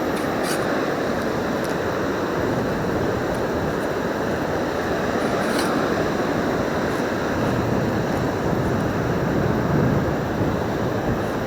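Steady rush of surf and wind blowing on the microphone, with a few faint clicks.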